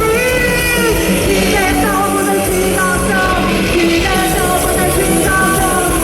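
Live rock band playing loudly, with a female lead singer singing over distorted electric guitars, bass and drums.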